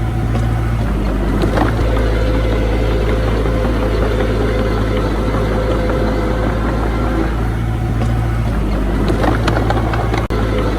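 Diesel engine of earthmoving machinery running steadily, with a steady low hum and a brief break near the end.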